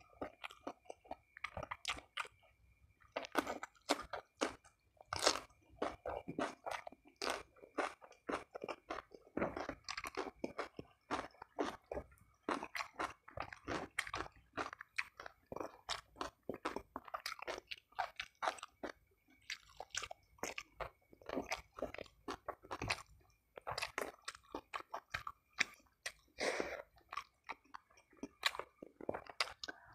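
Close-miked chewing and crunching of food by one person: bites of raw cucumber and fried snakehead fish and chicken, giving an irregular run of crisp, wet crunches. A faint steady high whine sits underneath.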